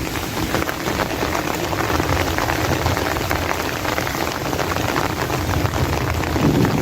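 Heavy rain falling, a dense steady patter of many drops striking close by.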